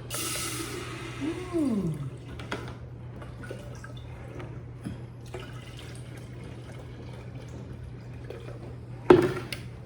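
Liquid poured into a glass electric kettle, a splashing pour that fades within the first two seconds into scattered drips and small handling clicks, with a louder knock near the end.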